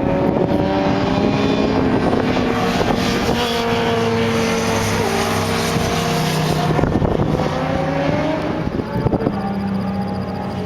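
Sport motorcycle engine running hard, its pitch slowly climbing and then dropping back a couple of times, with wind noise over it.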